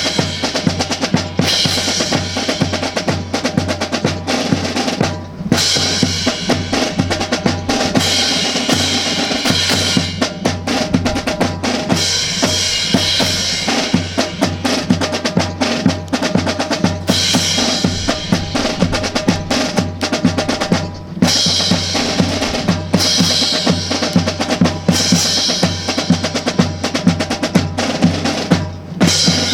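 Drums playing a steady marching cadence on snare and bass drum, with brief breaks every few seconds between phrases.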